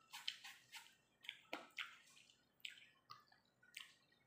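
Wet chewing and smacking on a mouthful of juicy yellow watermelon: a string of short, irregular squelches and clicks, several a second.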